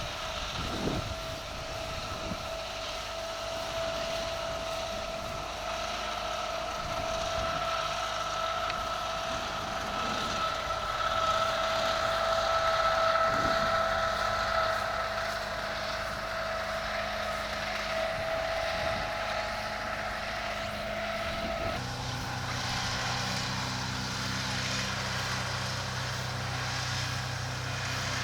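A steady engine drone with an even pitch that swells louder in the middle, then switches suddenly to a lower hum about twenty-two seconds in.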